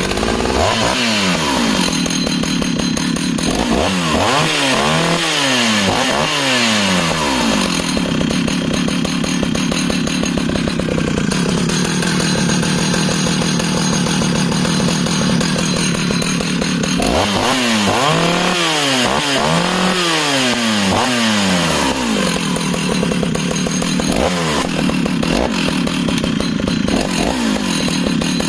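Jonsered 820 Professional 81cc two-stroke chainsaw engine running without cutting, blipped up and down to top revs several times in quick succession, holding steady for several seconds between the runs of blips. It returns to a steady idle, running cleanly: a healthy, well-tuned engine.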